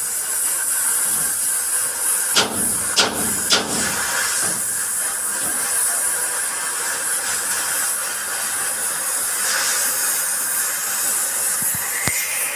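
Steady high hiss of welding on a truck's steel cab panel. Three sharp metal knocks come about two and a half seconds in, roughly half a second apart.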